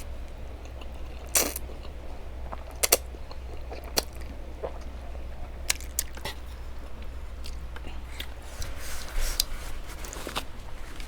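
Close-miked chewing of Buldak cream carbonara ramen noodles: wet mouth sounds with a series of sharp clicks, over a low steady hum.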